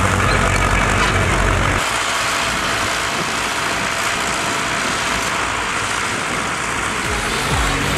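Tractor engine running steadily, with a low, even hum for about the first two seconds. The hum then stops, leaving a broad, steady outdoor noise.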